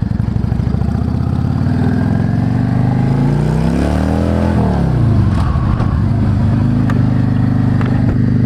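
Yamaha V Star 650's air-cooled V-twin engine running at low revs, revving up over about two seconds partway through, then dropping back quickly to a steady low note.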